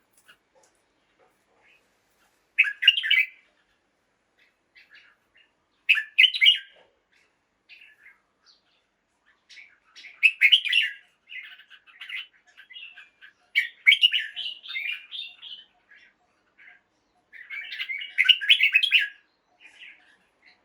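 Red-whiskered bulbul singing in short song phrases, a few seconds apart at first, then almost without pause through the second half.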